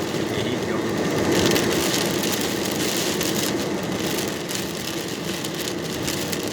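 Heavy rain hitting a car's roof and windshield, with the car's engine running steadily underneath.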